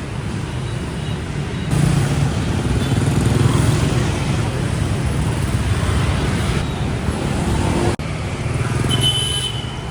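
Road traffic: the steady noise of motor vehicles passing on a city street, with abrupt jumps in level where the recording cuts between shots.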